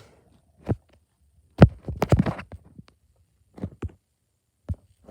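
Irregular knocks and clattery taps of small toy parts being handled, with a dense run of them about a second and a half in and a few single taps after.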